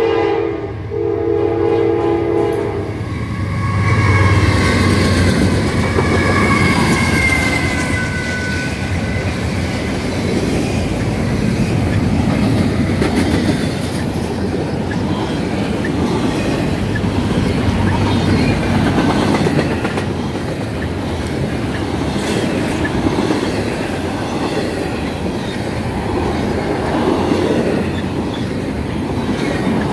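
Norfolk Southern diesel locomotive sounding its horn, which cuts off about two and a half seconds in. The locomotive then passes close by, followed by a long line of double-stack container cars rolling past with a steady clickety-clack of wheels over the rails.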